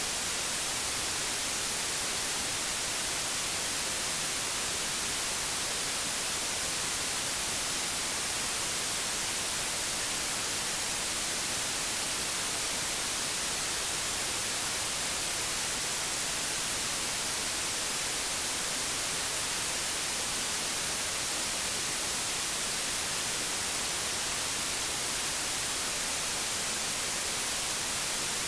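Old analogue television static: a steady, even hiss, strongest in the treble, that never changes.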